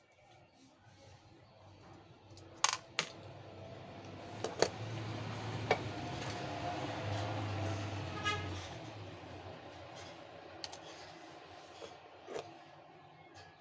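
Sharp clicks and taps of small metal tools being handled, about six in all, with a steady hiss and low hum that swells for several seconds in the middle and then fades.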